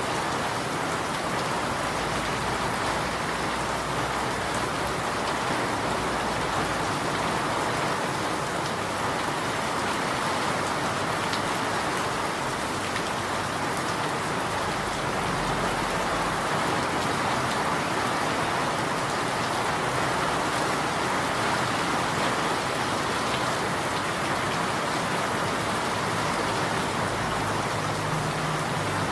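Steady rain falling and pattering on a surface, an even hiss with no letup.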